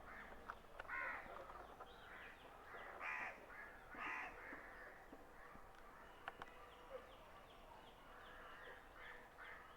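A crow cawing three times in harsh calls, about a second in, again at three seconds and once more a second later, over faint chirps and whistles of smaller birds.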